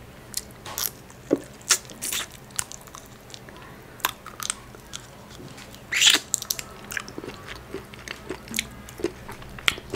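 Close-miked mouth sounds of someone eating soft boiled crab meat: wet chewing with irregular lip smacks and clicks, and one louder noisy burst about six seconds in.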